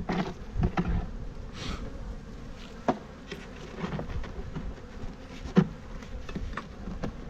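Honeybees buzzing around an open hive. Scattered sharp clicks and knocks of wooden hive frames being shifted in the box come through, the loudest about two-thirds of the way through.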